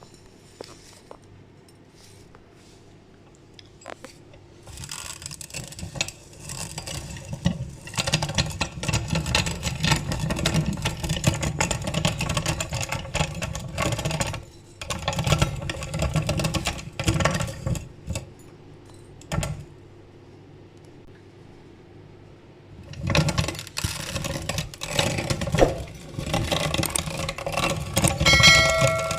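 Electric meat grinder running and crunching macaroni: a dense crackle of snapping pasta over the motor's low hum. It starts about five seconds in, stops for a few seconds past the middle, then starts again.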